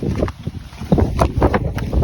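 Wind buffeting the microphone: a loud, gusty low rumble that surges irregularly, with crackly bumps.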